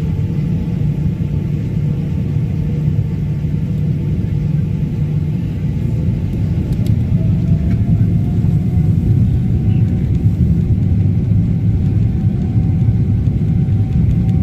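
Boeing 777-200ER engines heard from inside the cabin during takeoff: a steady low rumble, with a faint whine that rises slightly in pitch from about halfway through as the sound grows a little louder.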